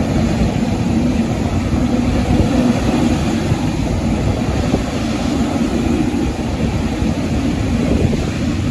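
Jet airliner engines giving a steady low rumble.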